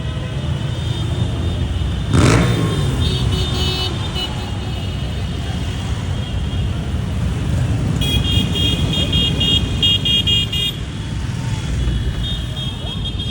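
Many motorcycle engines running in a slow procession, with horns beeping: a short horn a few seconds in and a run of rapid beeps later on. A sudden loud burst about two seconds in stands out above the engines.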